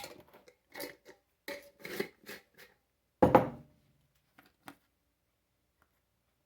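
Kitchen containers handled on a counter while seasoning a brine: a run of short knocks and rattles, then one louder knock with a short ring about three seconds in as something is set down, and a couple of small clicks after.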